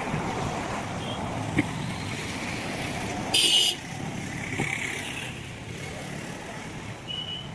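Steady rain with road traffic passing on a wet street, and a short loud hiss about three and a half seconds in.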